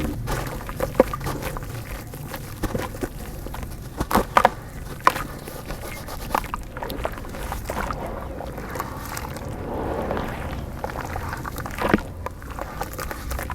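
Chunks of dry dirt crumbling into water, with scattered sharp cracks and plops over a steady low wash, several cracks clustered about four to five seconds in and another near the end.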